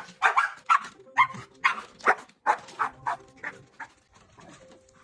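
A dog barking excitedly in quick succession, about two or three barks a second, the barks getting weaker near the end.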